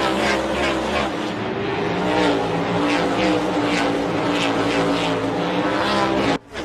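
NASCAR Next Gen stock car V8 engine running at high revs, a loud, steady engine note that cuts off suddenly near the end.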